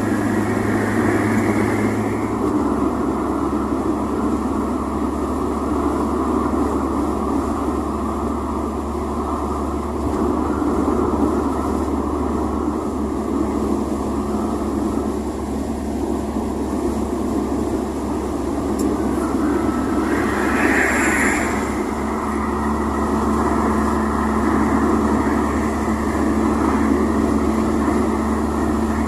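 1987 VW Voyage's AP 1.6 four-cylinder engine running steadily, with a brief higher-pitched sound about two-thirds of the way through.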